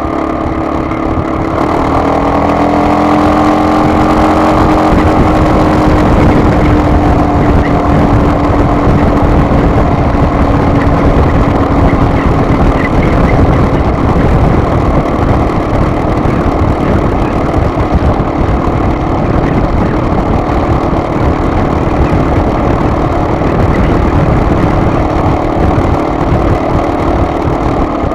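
A vehicle on the move: a steady engine note over heavy road and wind rumble. The engine pitch shifts a couple of seconds in, then holds steady.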